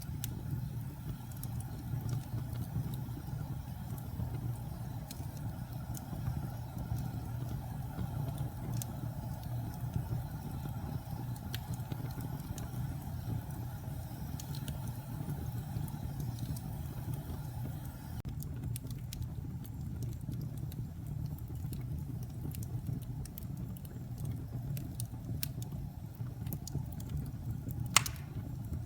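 Wood fire crackling in a fireplace: a steady low rumble with scattered sharp pops and snaps, which come more often after about eighteen seconds. One loud pop comes near the end.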